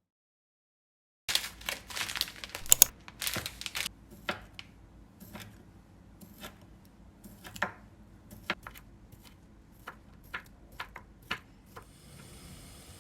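Packaging torn open and crinkled for about three seconds, then scattered light taps and clicks; a steady hiss starts near the end.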